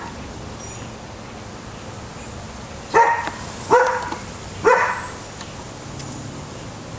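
A dog barking three times in quick succession, starting about three seconds in.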